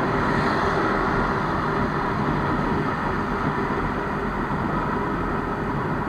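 Steady motor-vehicle engine and road noise that slowly fades.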